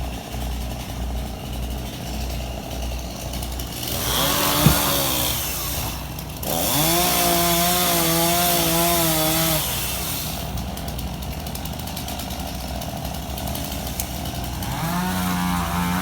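Chainsaw engine revving up from a low idle in repeated bursts while cutting, with a sharp knock about five seconds in. A high rev is held for about three seconds in the middle, and another rev rises near the end.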